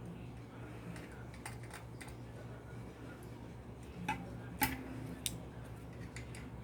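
A few scattered sharp clicks and taps, the loudest about four and a half seconds in, over a steady low hum.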